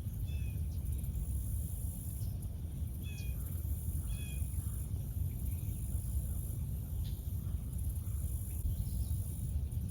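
A small bird chirping three times, short high two-toned notes a few seconds apart, over a steady low rumble of outdoor background noise.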